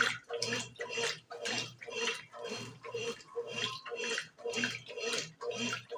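Brastemp BWG11 11 kg washing machine in its wash cycle, water sloshing through the load in an even rhythm of about two strokes a second, with a low motor hum pulsing on each stroke.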